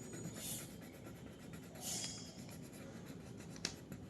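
Faint scratching of colouring strokes on paper as a drawing is shaded in gray, with a couple of brief swishes and one sharp tap late on.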